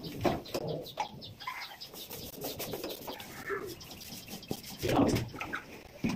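Birds calling, with scattered clicks and knocks.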